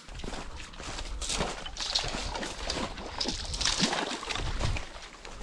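Footsteps crunching and rustling through brush and ground litter in an uneven run, over a low rumble.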